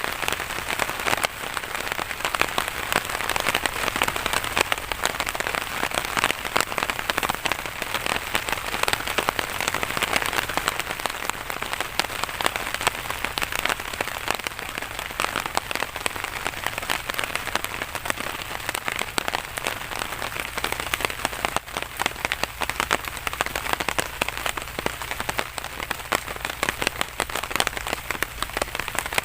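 Steady rain falling, a dense patter of drops hitting a surface. A faint low hum joins in about two-thirds of the way through.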